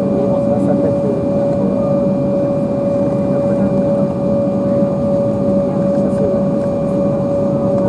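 Embraer 190's jet engines idling, heard inside the cabin as a steady hum with a constant mid-pitched whine.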